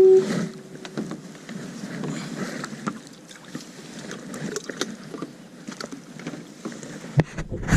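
Water sloshing against a kayak's hull, with scattered small clicks and knocks of gear being handled, and a dull thump near the end.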